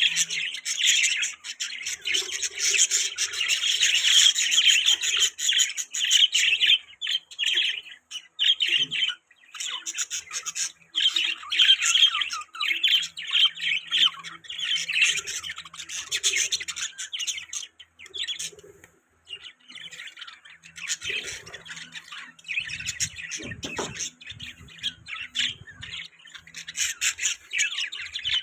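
Budgies chattering and chirping continuously: rapid warbling calls with sharper squawks mixed in, dropping briefly twice. A low thump or rustle about 23 seconds in.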